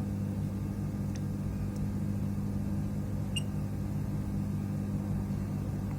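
Steady low electrical hum from workbench equipment, with a couple of faint light ticks about a second in and halfway through.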